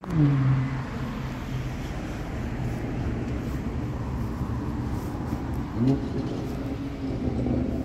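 A car engine revving: it opens on a loud rev that falls away, runs on steadily, and gives another short rising rev just before the end.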